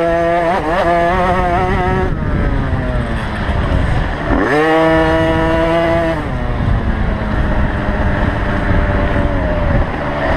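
Motocross bike engine revving hard: the pitch climbs sharply at the start and again about four seconds in, holds high, then falls off each time as the throttle is rolled off, over the steady drone of other bikes.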